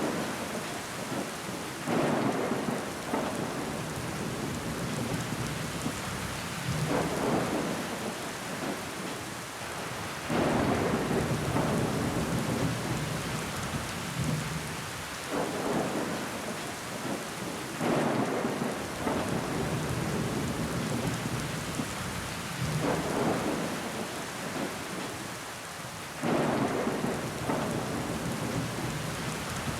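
Steady rain pattering on a window pane, with water trickling down the glass. The rain swells louder in surges every few seconds.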